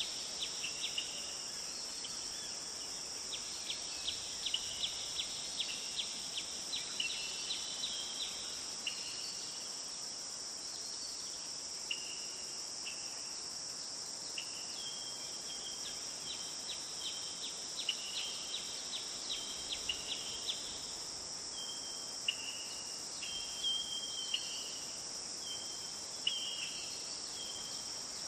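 A steady, high-pitched drone of insects runs throughout. Over it come chirping calls: runs of rapid short notes, then short level whistles repeated every second or so in the second half.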